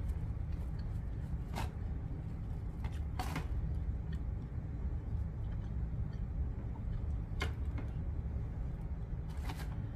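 A person chewing food close to the microphone, with four short, sharp mouth clicks spread through, over a steady low hum.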